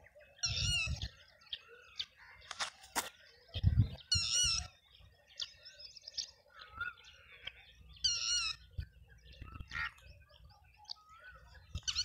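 Wild birds calling: a loud, wavering call repeats about every four seconds, with softer chirps in between. A couple of low thumps sound under the calls.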